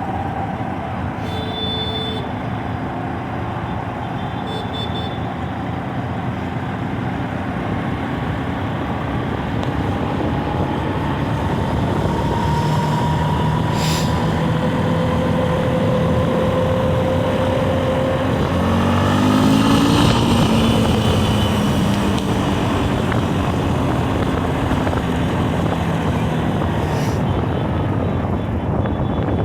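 Copa Truck racing trucks' diesel engines running on the circuit, their pitch slowly rising and falling. The sound grows loudest about two-thirds of the way through, as a truck passes close.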